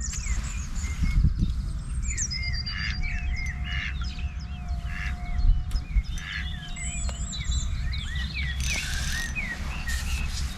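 Small birds chirping and singing in quick, short notes over a steady low rumble.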